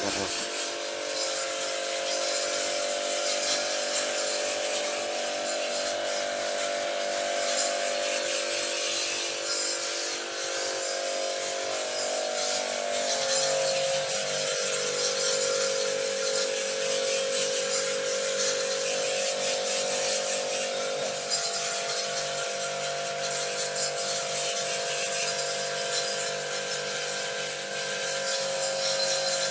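A small electric motor running steadily with a hum, its pitch shifting about halfway through, over light clicking and scraping.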